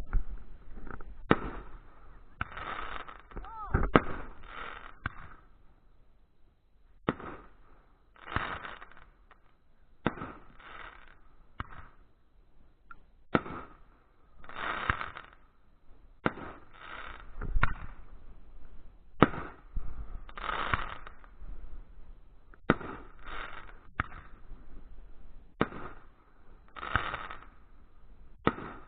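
Fireworks going off: sharp bangs at irregular intervals, a second or a few seconds apart, some followed by a short crackling burst.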